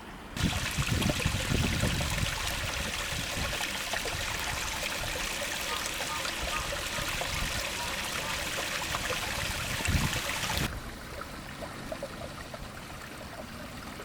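Running water of a stream, a steady rushing hiss that starts suddenly about half a second in and cuts off abruptly near the end, with a few low bumps near the start and shortly before it stops.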